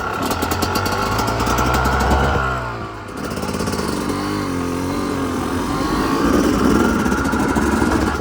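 Two-stroke dirt bike engine under throttle as the bike rides off. It pulls hard, eases off briefly about three seconds in, then pulls again.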